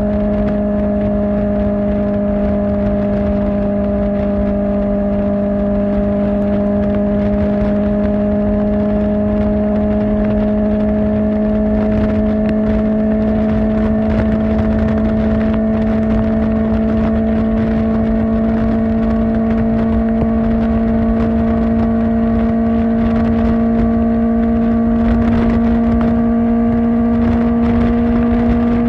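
Kawasaki Ninja ZX-4R's inline-four engine breathing through an Akrapovic exhaust, held at a steady cruise with its note creeping slowly upward.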